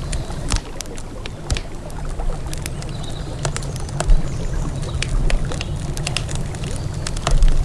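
Wood campfire crackling, with many irregular sharp pops and snaps, over a steady low rush of the river beside it.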